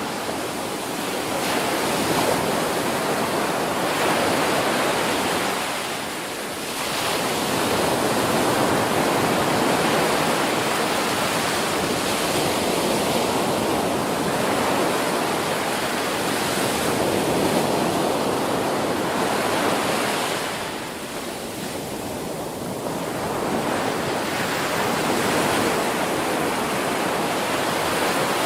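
Ocean surf breaking on a beach in a continuous rush, easing briefly about six seconds in and again around twenty-two seconds before the next waves build.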